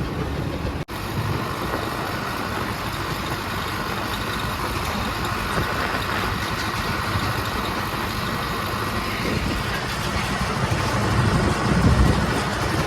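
Mahindra Arjun 555 tractor's diesel engine running steadily under way, pulling an empty trolley. It cuts out for an instant about a second in and gets louder near the end.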